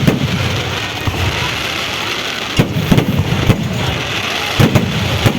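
Fireworks going off: a dense, continuous crackle of firecrackers, with about half a dozen louder bangs from about two and a half seconds in.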